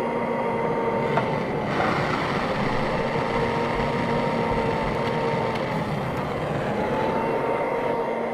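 A steady machine hum with a whining tone that wavers slowly in pitch, over an even rushing noise.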